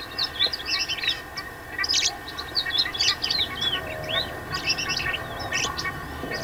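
Several birds chirping and calling, a dense run of short rising and falling notes.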